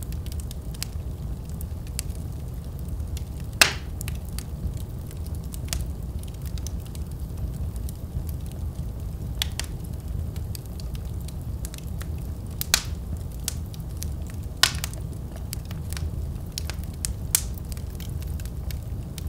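Fire burning in a fireplace: a steady low rumble of flame with scattered crackles and about five sharp pops, the loudest about four seconds in and again around thirteen and fifteen seconds.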